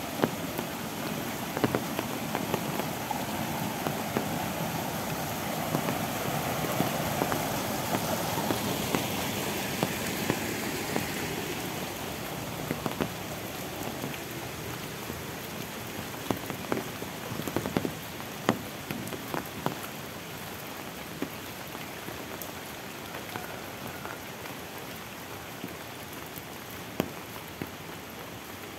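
Steady rain falling on leaves and a wet path, with sharp drops striking close by throughout. For the first ten seconds or so, the rush of water spilling over a small weir in a concrete irrigation channel is mixed in, then fades.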